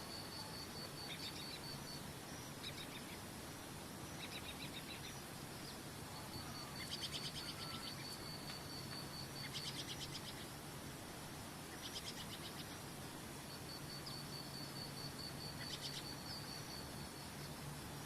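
Birds singing over a steady rush of waterfall water. Short, rapid high trills come every couple of seconds, and a long, evenly pulsed high trill starts and stops several times.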